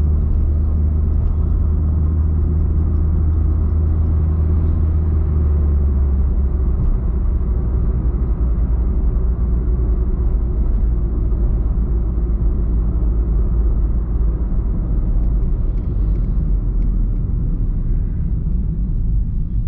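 Mazda 323 Isamu's exhaust note: the engine running with a steady, low drone. About six and a half seconds in, the low note drops a little lower.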